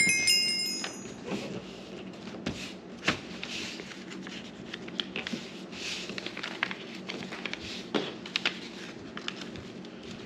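A square sheet of paper being folded on a tabletop: soft rustling and scraping of the paper with scattered light taps and clicks as the creases are pressed down by hand. A short bright chime sounds at the very start, under a faint steady low hum.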